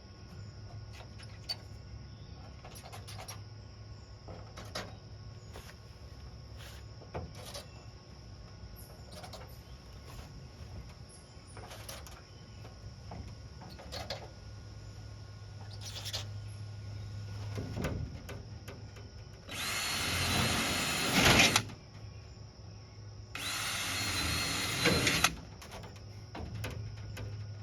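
A power drill runs twice, about two seconds each time, with a steady motor whine, as holes are drilled for the body clips on a race car's panels. Before that come scattered light clicks and taps.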